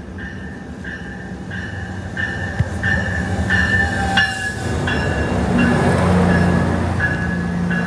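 MARC commuter train pulling out of the station, its bell ringing in an even repeat about twice a second over the rumble of the train and its wheels. The rumble grows louder toward the middle.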